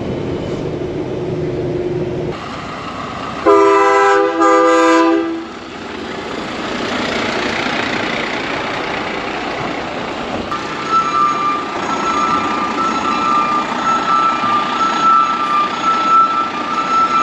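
Heavy truck running, with a loud multi-tone air horn sounding about three and a half seconds in, held for under two seconds with a short break. From about halfway, a high pulsing tone sounds over the truck noise.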